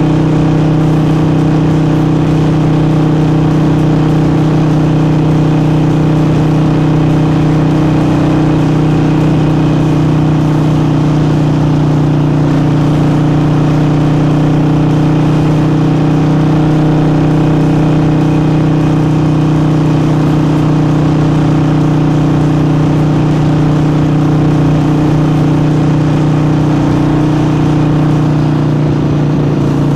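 Harley-Davidson Forty-Eight's air-cooled V-twin, fitted with an aftermarket air intake, running under way at a steady speed, its pitch easing slightly near the end.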